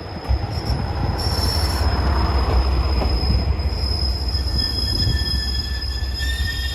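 Rail vehicle running on track: a steady low rumble with a high, steady wheel squeal over it, typical of steel wheels on a curve. The sound cuts off abruptly at the end.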